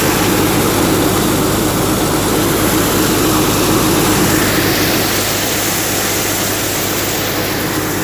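Massey Ferguson 9500 tractor's diesel engine running steadily under load, driving a mustard threshing machine, with a dense mechanical din.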